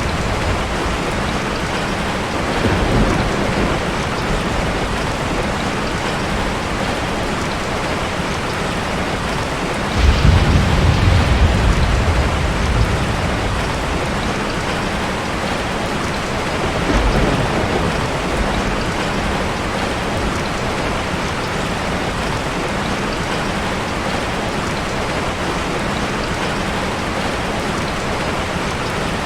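Steady heavy rain falling, with low rumbles of thunder: a short one about three seconds in, a louder one starting suddenly about ten seconds in and rolling on for a few seconds, and another near seventeen seconds.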